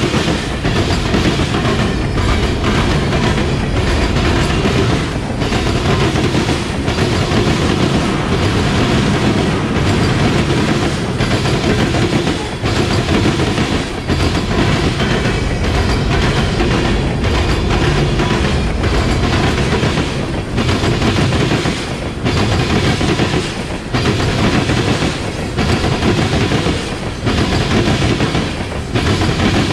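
Loud, steady rumble of a freight train's tank cars rolling past close by, steel wheels clattering on the rails with a brief dip in the sound about every second or so.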